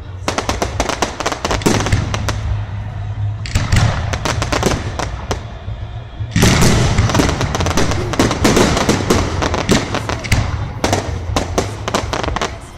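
Fireworks going off in rapid clusters of sharp cracks and bangs over a steady low rumble, building to a dense, louder barrage about halfway through.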